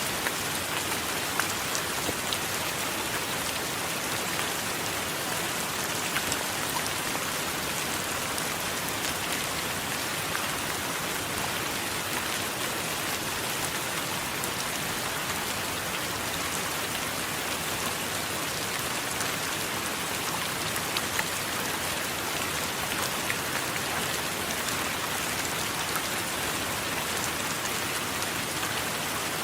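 Steady heavy rain, with scattered sharp drop impacts.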